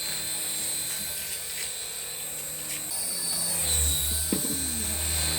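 Small electric motors of a cheap toy RC helicopter whining steadily with the whir of its rotors. About three and a half seconds in, the whine dips a little in pitch and a low rumble joins it.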